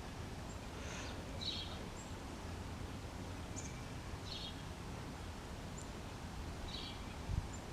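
Low steady background noise with a few faint, short high bird chirps about every two to three seconds.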